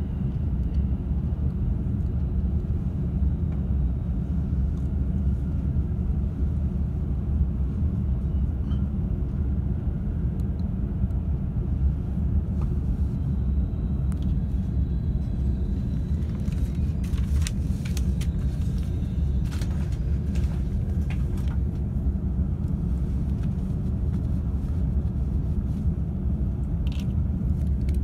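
Low, steady rumble of an E531 series electric train running, heard from inside the upper deck of a bilevel Green car as it runs in towards a station stop. A run of sharp clicks comes about two-thirds of the way through, and a brief high tone near the end.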